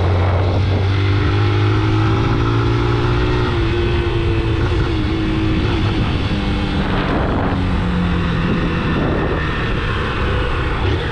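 A vehicle engine running while on the move, with a steady low hum and an engine note that shifts slightly in pitch a few times.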